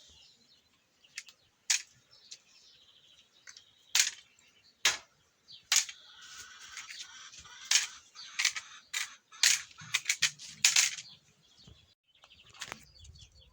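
A series of sharp, irregular clicks and snaps from hands working through mulberry branches, picking the berries.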